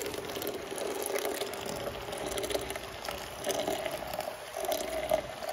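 Liquid being poured into a vessel while making coffee. It is a steady pour whose pitch rises as the vessel fills.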